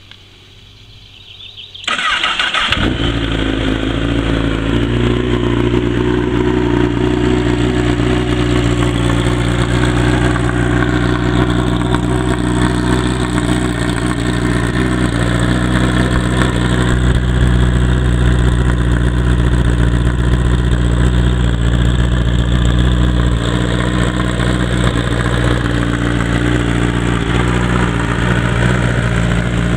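2008 Honda CBR1000RR Fireblade's inline-four engine starting on the starter and catching about two seconds in, then idling steadily through a de-catted Racefit exhaust with its baffle in.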